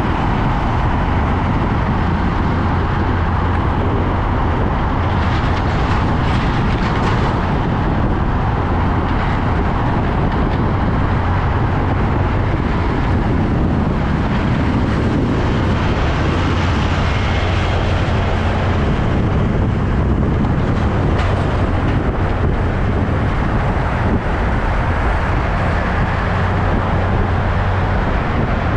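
Heavy truck engine running steadily, a constant low rumble with road or yard noise over it.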